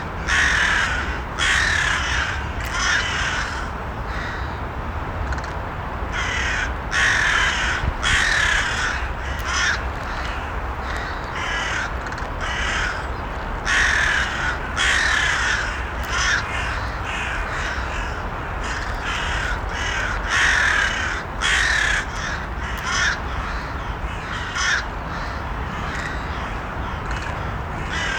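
Crows cawing over and over, single harsh calls and short runs of calls every second or two, against a steady low background noise.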